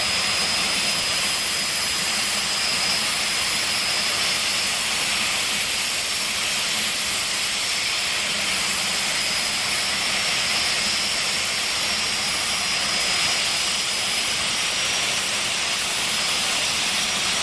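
Jet-powered drag car's turbine engine running steadily: a constant hiss with a steady high-pitched whine over it, no rise or fall in pitch or level.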